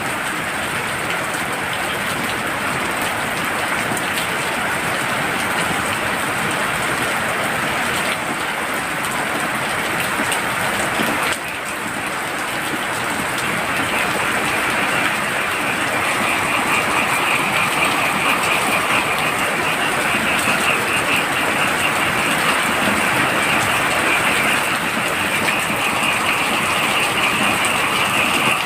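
Heavy rain falling steadily, with a chorus of frogs calling in rapid pulses that joins about halfway through and continues over the rain.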